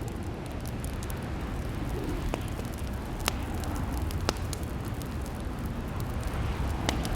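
Fireplace crackling: a steady low rumble of burning wood with a few sharp pops, the loudest about three and four seconds in.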